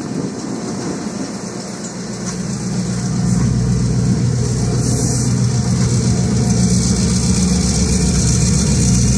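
Train's locomotive engine running with a steady low drone, growing louder about two and a half seconds in and then holding.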